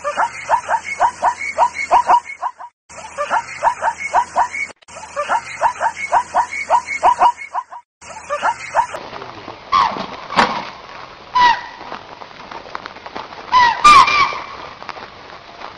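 Animal calls. First a rapid series of short calls, about four or five a second, broken by short gaps. Then, from about nine seconds in, a few louder separate calls with an upward hook.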